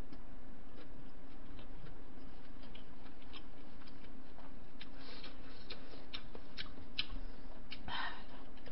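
Close-miked chewing of a mouthful of jjamppong noodles: small wet mouth clicks and smacks, coming more often past the middle, over a steady low hum.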